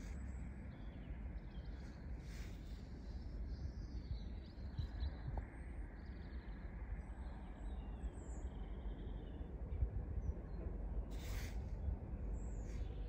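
Small birds chirping and calling over a low, steady outdoor rumble, with a couple of short rustling noises near the end.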